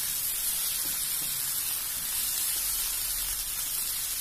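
Onion-tomato masala sizzling steadily in oil in a frying pan, with the spices just stirred in.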